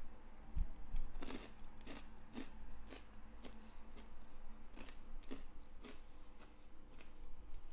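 Close-miked chewing of crunchy caramelized pecans, with a sharp crunch about twice a second.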